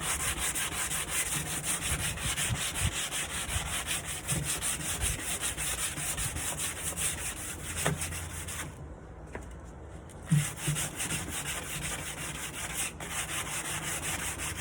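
Hand sanding of a wooden nightstand, sandpaper rubbed back and forth over the wood in steady repeated strokes. The strokes pause briefly about nine seconds in, and a short knock follows as they resume.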